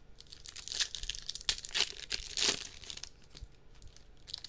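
Wrappers of trading card packs crinkling and tearing as they are ripped open, in a series of short irregular rasps.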